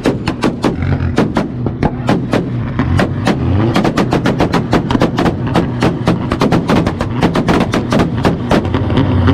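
Car exhaust banging on two-step launch control: the engine is held on the rev limiter, spark cut makes fuel ignite in the exhaust, and it fires off a rapid, irregular string of loud sharp pops and bangs, several a second, over a steady engine drone.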